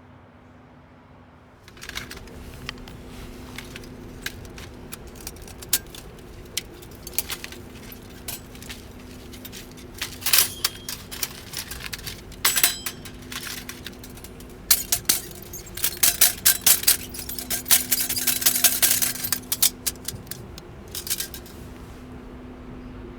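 Small metal objects clinking and rattling: an irregular run of light clicks and clinks, busiest in the second half, over a faint steady hum.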